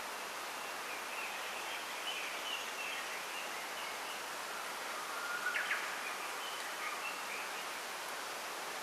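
Wind rustling through a bamboo grove as a steady hiss, with small birds chirping faintly throughout and one louder, sharper call about five and a half seconds in.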